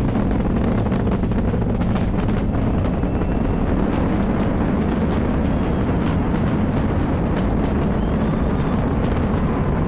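Space Launch System rocket in powered ascent: its four RS-25 core-stage engines and two solid rocket boosters give a loud, steady, deep rumble shot through with continuous crackling.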